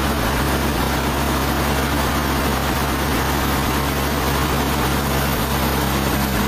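Sawmill machinery running steadily: an even, low engine hum under a constant hiss, with no change or break.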